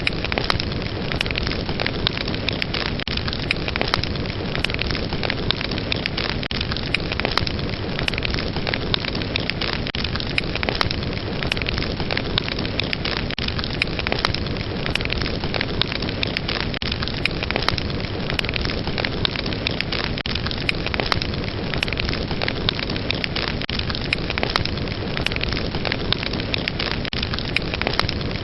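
Fire burning in a fireplace with dense, constant crackling: many small sharp pops and snaps over a steady rushing hiss.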